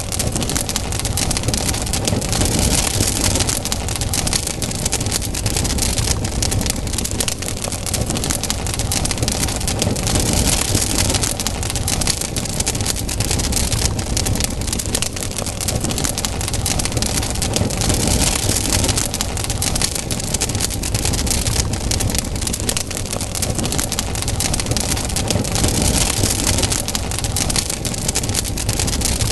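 Campfire burning: dense crackling and popping of the burning wood over a steady hiss that swells and fades every several seconds.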